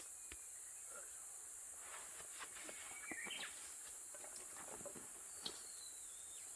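Faint forest ambience with a steady high hiss, a few short high bird calls and scattered light rustles and clicks.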